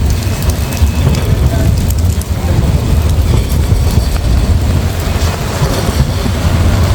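City street ambience: a steady, loud low rumble of traffic, with small scattered clicks.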